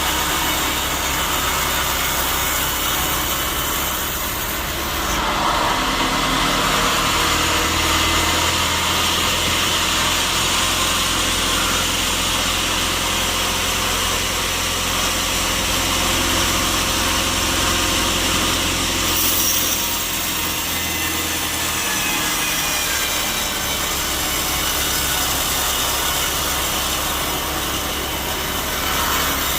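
Sawmill saw cutting through a teak log over a steady motor hum. The cutting grows louder about five seconds in and eases off again near twenty seconds.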